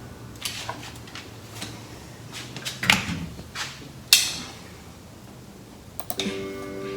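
A string of sharp clicks, knocks and scrapes from hands and tools at work, with two louder clacks around the middle.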